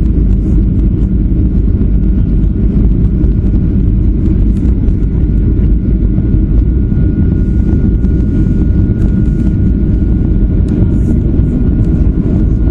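Steady low rumble of a Boeing 737-400's engines and rushing air heard inside the passenger cabin, with a faint steady whine joining in a few seconds in.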